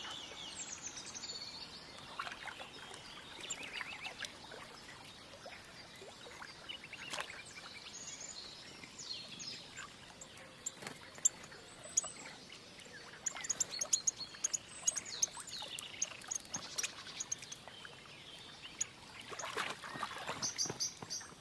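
Great tits bathing at the water's edge: small splashes in shallow water mixed with high, thin chirping calls, with a quick run of short calls about two-thirds of the way through.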